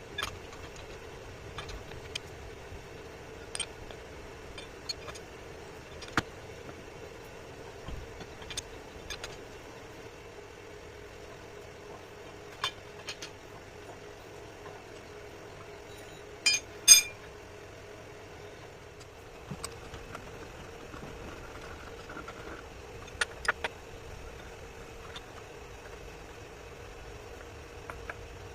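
Metal parts and tools clinking and tapping now and then, with a sharp ringing double clink about halfway through, over a steady machine hum.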